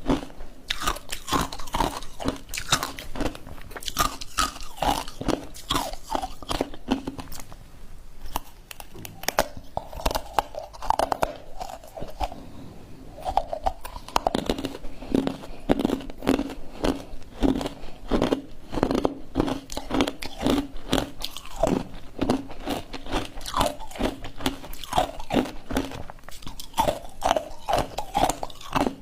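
Ice being bitten and chewed close to the microphone: a dense run of crunches that eases off briefly around the middle, then picks up again.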